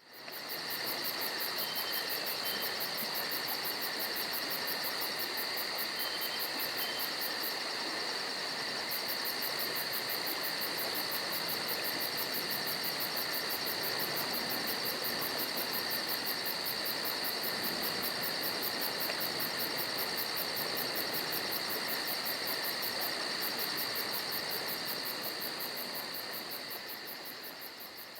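Steady chorus of chirping insects with a fast, even high pulse. It fades out near the end.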